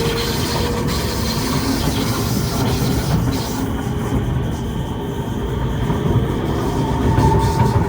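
Kawasaki C151 metro train heard from inside the carriage while running between stations: a steady rumble of wheels on the track, with a short high tone about seven seconds in.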